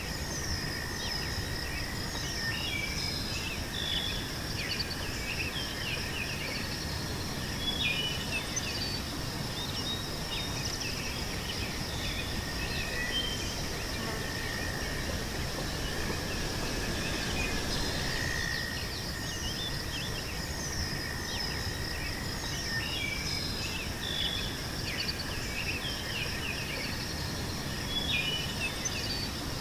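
Meadow ambience: a steady high insect drone with a second, lower steady insect tone, small birds chirping on and off throughout, and a low rumble underneath.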